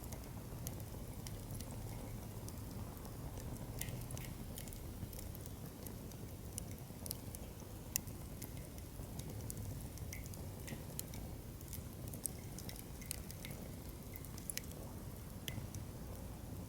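Firewood burning in a campfire stand, crackling with irregular sharp pops, one louder snap about eight seconds in, over a low steady rush of flame.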